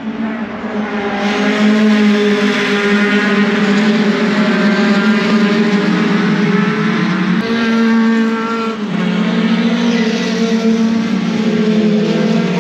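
Racing pickup truck engines running hard at steady high revs, the engine note jumping to a new pitch a few times.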